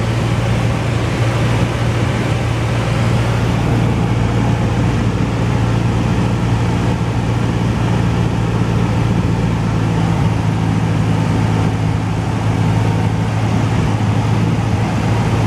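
Cessna 172's piston engine and propeller droning steadily in flight, a constant low hum over wide rushing noise.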